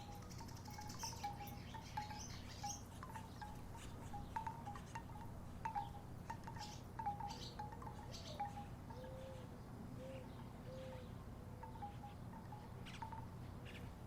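Wooden tiki wind chimes knocking together irregularly in a light breeze, short clinks at a steady middle pitch, over a steady low background hum.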